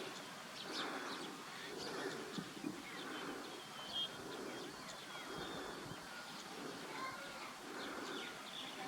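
Wild birds calling: a scatter of short, high chirps and twitters, several overlapping.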